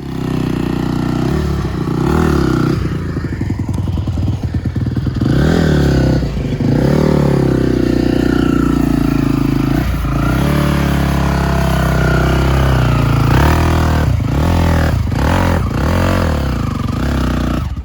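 ATV engine revving hard under load, its pitch rising and falling over and over, with several quick drops in revs near the end.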